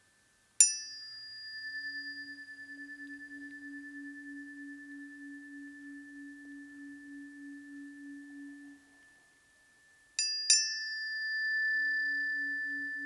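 Planetary tuning forks for Mercury and Pluto struck and left ringing, with a clear high tone over a lower tone that wavers in a slow beat of about two pulses a second as it fades. Near the end the forks are struck again twice in quick succession and ring anew.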